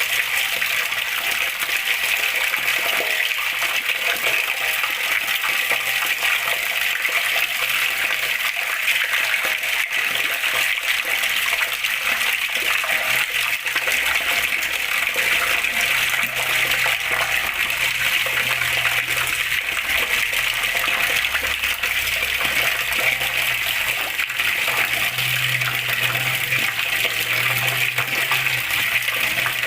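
Water flowing and splashing steadily, a continuous even rush without breaks.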